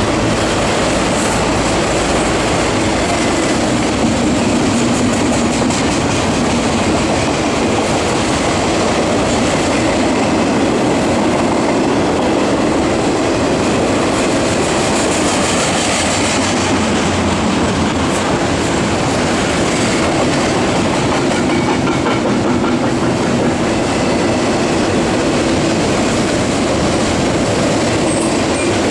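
Double-stack intermodal container train's well cars rolling past, their wheels running on the rails in a steady, unbroken noise.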